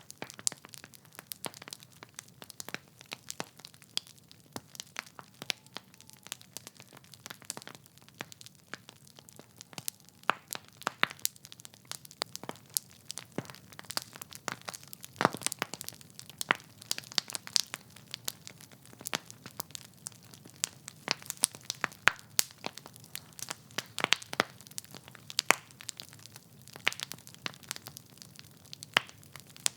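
Wood fire in a fireplace crackling: irregular sharp pops and snaps from the burning logs over a soft low hiss.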